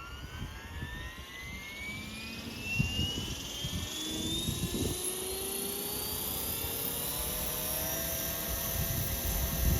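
Electric RC helicopter (Trex 450 with EC145 Roban scale mechanics) spooling up: the motor and rotor whine rises steadily in pitch and then levels off at flying speed. Gusty wind buffets the microphone, louder near the end.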